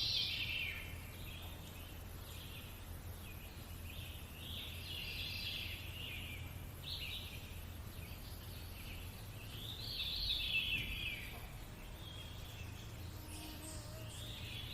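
Birdsong: short phrases of high chirping every few seconds, over a faint steady low rumble of background ambience.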